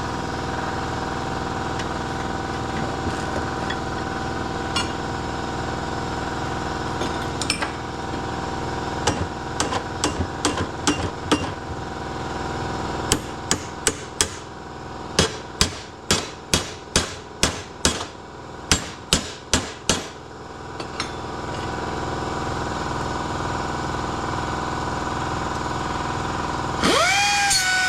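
A series of hammer blows on metal in two runs, the second a steady beat of about two strikes a second, over a continuous machine hum. Near the end a power tool starts with a loud whine that sags in pitch.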